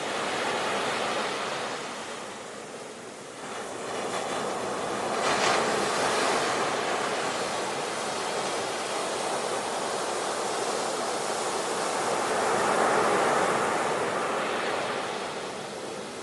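Ocean surf: waves breaking and washing in, rising and falling in swells, with one wave crashing sharply about five seconds in and another swell building and fading in the later part.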